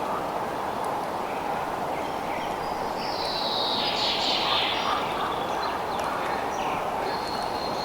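Nature soundscape: a steady, even hiss with scattered short animal calls over it, and one louder call falling in pitch about three seconds in.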